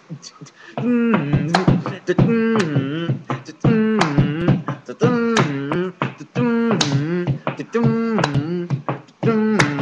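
Beatboxing: a short sung or hummed melodic phrase repeated over and over, about every second and a half, over sharp percussive clicks and pops.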